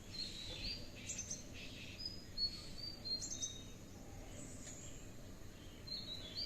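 Birds chirping: many short, high whistled notes and little rising and falling chirps, scattered through, over a faint steady outdoor background.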